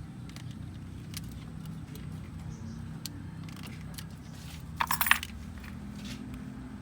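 A short burst of metallic jingling and clinking about five seconds in, over a steady low hum and scattered light clicks.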